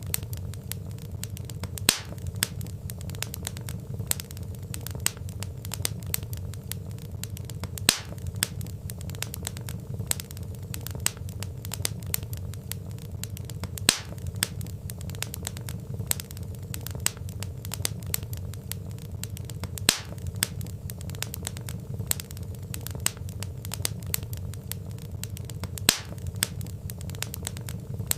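Wood fire crackling: a constant patter of small pops and snaps from burning logs, with a louder snap about every six seconds, over a steady low rumble of the flames.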